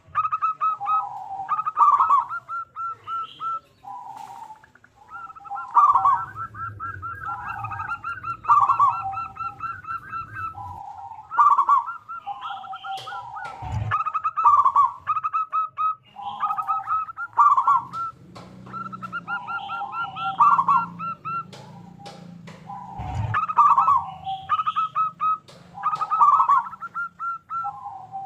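Zebra dove (local perkutut) singing: the same cooing phrase repeated every two to three seconds, each a quick rolling trill followed by lower coo notes. Dull knocks sound about halfway through and again later.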